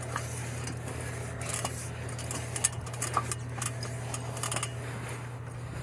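Scattered light metallic clinks and ticks from work at a rooftop HVAC unit, over a steady low hum.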